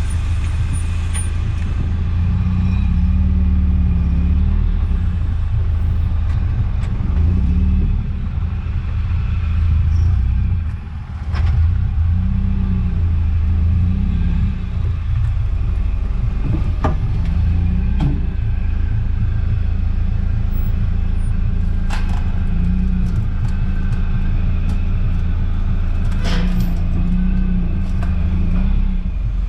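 Eunos Roadster being driven: steady low engine and road rumble with the engine note rising and falling, and several sharp knocks and clicks spread through it, the kind of noise from the suspension that is being hunted for.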